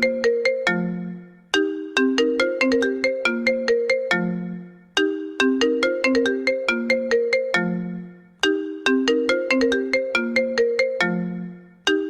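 iPhone incoming-call ringtone ringing on a loop: a quick run of bright pitched notes that ends on a lower held note and fades, the phrase repeating about every three and a half seconds.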